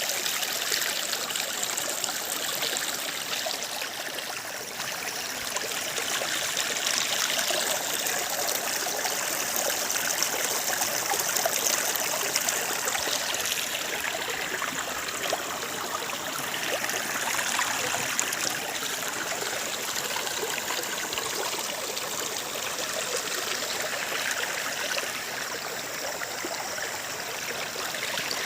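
Steady hiss of water, even and unbroken throughout, with no distinct drops or splashes standing out.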